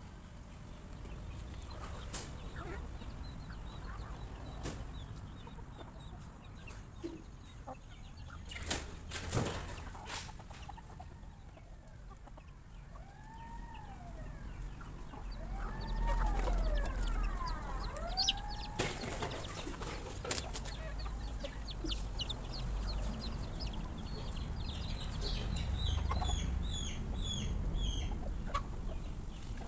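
Flock of chickens clucking while feeding, with sharp knocks scattered through. About halfway through comes a run of rising-and-falling calls, and near the end a string of short high chirps.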